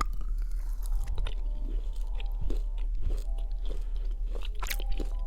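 Close-miked chewing of a Haribo Berries gummy candy, with many short crunchy clicks as the sugar-bead coating breaks between the teeth.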